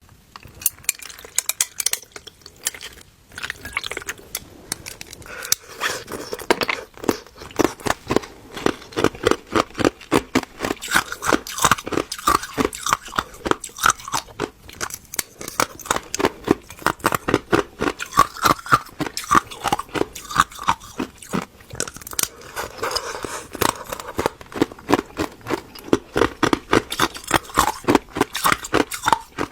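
Close-miked crunching of ice being bitten and chewed: rapid, crisp cracking and crackling, many sharp crunches a second.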